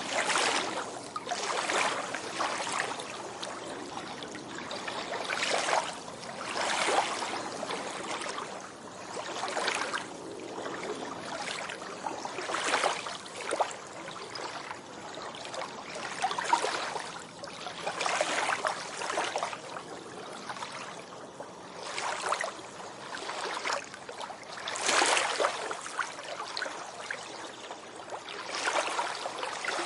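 Small sea waves breaking and washing up a beach, the surf swelling and fading every few seconds with a continuous fizzing wash between.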